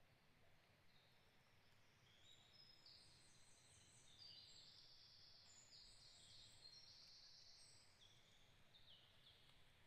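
Faint high-pitched songs of small birds in a forest: several buzzy trilled phrases overlapping each other, busiest in the middle and thinning out near the end, over a low steady hiss.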